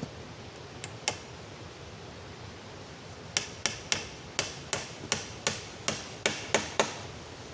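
Two sharp knocks, then a quick run of about a dozen sharp knocks at roughly four a second, like striking with a hammer, over a steady hiss of heavy rain.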